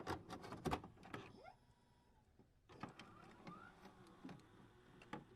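Near silence broken by a few faint, scattered clicks and knocks.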